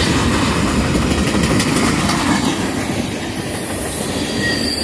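Freight train tank cars rolling past close by: a steady rumble and clatter of steel wheels on the rails.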